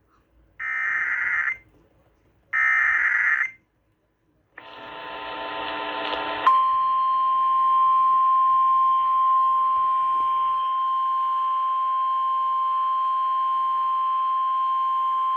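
Emergency Alert System tornado-warning alert broadcast over radio: two short buzzing digital header bursts, then a rising stretch of noisy tones, then one steady single-pitch alert tone held for about nine seconds until it cuts off.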